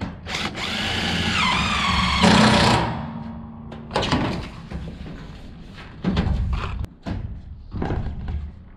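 Cordless drill driving a screw through sheet-steel roofing: the motor runs for about two and a half seconds, its pitch dipping as the screw bites, then stops. A series of knocks and clunks follows.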